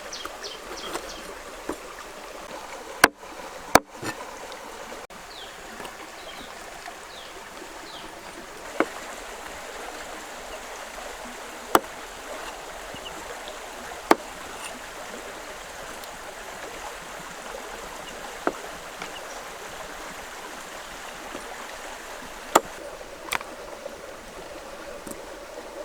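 Steady hiss of running water, broken by a sharp knock every few seconds, the loudest two close together about three and four seconds in.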